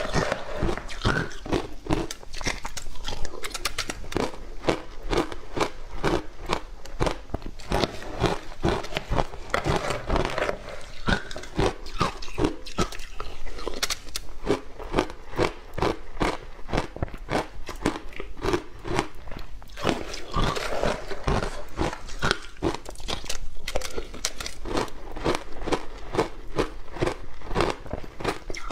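A person biting and chewing something hard and crunchy close to the microphone, with a rapid, irregular run of crunches.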